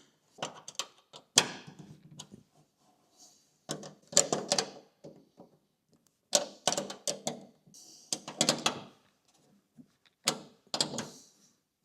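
Metal hand tool clicking and scraping on nuts and bolts in about five short bursts, as a foot starter switch is bolted down through a Jeep's steel floor.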